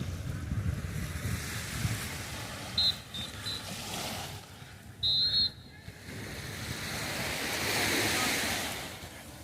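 Sea waves washing onto the shore, one wash swelling and fading about eight seconds in, with wind rumbling on the microphone near the start. Two short, high chirps cut through, about three and five seconds in.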